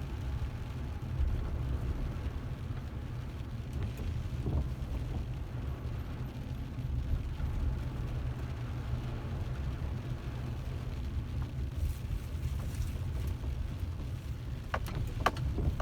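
Car on the move: a steady low rumble of engine and road noise, with a couple of sharp clicks near the end.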